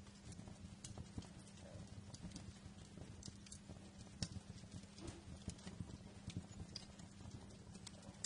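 Wood fire crackling faintly, with irregular small pops and snaps over a steady low rumble.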